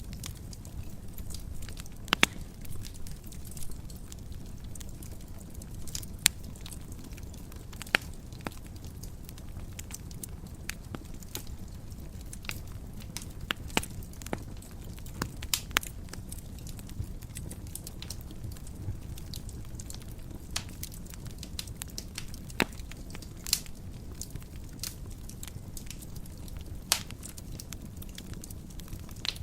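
Wood fire burning in a fireplace: a steady low rumble of flames with irregular sharp crackles and pops, a few of them much louder than the rest.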